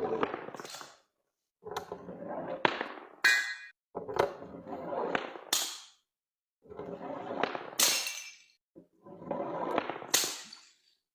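Glass bottles being broken: five separate breaks cut one after another, each a second or two of crunching with sharp cracks, some leaving a high ringing of glass.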